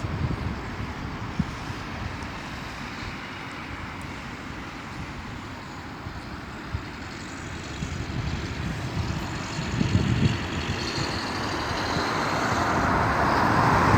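Outdoor wind rumbling on the microphone in gusts, over road-traffic noise that grows louder toward the end.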